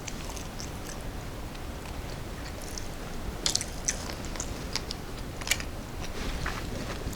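A person biting and chewing a snack close to the microphone, with scattered small crunchy clicks that grow thicker about halfway through.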